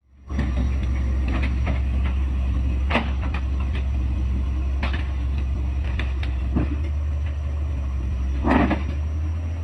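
Heavy diesel engine running steadily with a low rumble, with sharp knocks and clanks every second or two, the largest about three seconds in and near the end.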